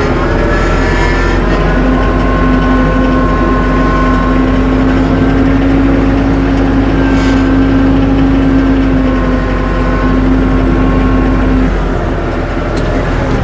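Compact tractor engine running steadily under load. It rises in pitch at the start, and a steady whine joins it about two seconds in and stops shortly before the end.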